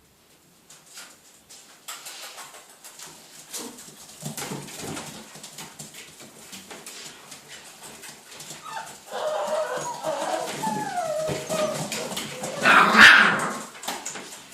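American Staffordshire Terrier puppies whimpering and whining in rising and falling cries over small scratching and rustling sounds, with one louder cry near the end.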